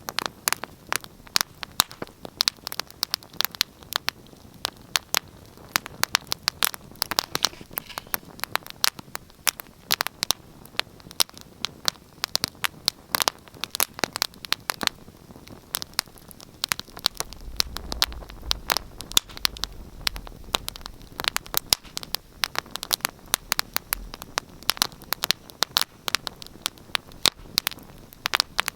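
Wood fire burning in a fireplace, crackling and popping with irregular sharp snaps over a soft hiss. A low rumble swells for a few seconds past the middle.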